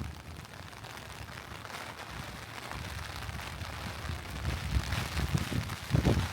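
Steady rain, an even hiss, with low rumbling gusts that build up near the end.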